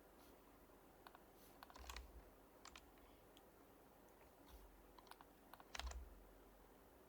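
Quiet, sparse typing on an HHKB Professional Hybrid Type-S keyboard with silenced Topre switches: a few soft keystrokes at a time with pauses between. The two heaviest strokes, about two seconds in and near the end, land with a dull thump.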